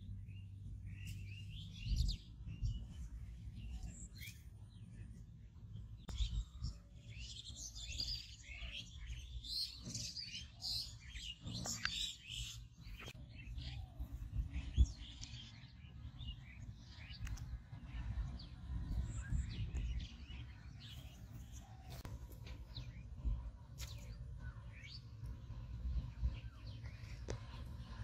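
Small birds chirping and calling, busiest in the first half and sparser after, over a steady low rumble with a few soft knocks.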